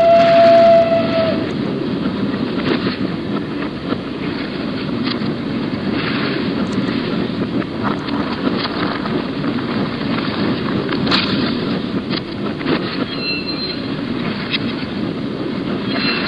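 Narrow-gauge train running, a steady rumble with scattered clicks of the wheels over rail joints. A whistle holding one steady note stops about a second in, and brief high wheel squeals come near the end.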